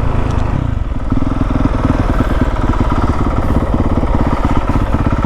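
Honda CRF450R's single-cylinder four-stroke engine running at light throttle with an even firing beat; it eases off briefly about a second in, then picks back up.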